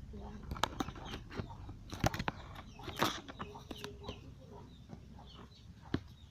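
Chickens clucking in the background, broken by a few sharp clicks and knocks, the loudest about two and three seconds in.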